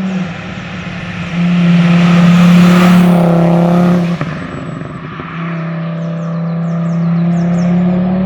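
Tuned Audi TT RS's turbocharged 2.5-litre five-cylinder running hard at a steady engine speed through a 4-inch turbo-back exhaust. The exhaust note is loudest from about one and a half to four seconds in, breaks off briefly just after four seconds, then returns at the same pitch.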